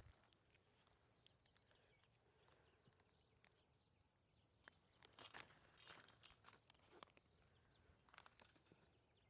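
Near silence, with a few faint crackles and clicks, a cluster about five to six seconds in and a few more near eight seconds.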